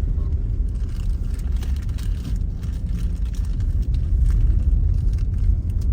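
Car road and engine noise heard inside the cabin while driving through a snowstorm: a steady low rumble with faint scattered clicks and crackles.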